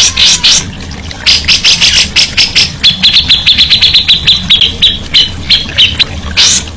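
Songbird calling in quick bursts of sharp, rapidly repeated notes, then breaking into a fast rattling trill about three seconds in. It is a recorded bird-song track of the kind played to train cage birds.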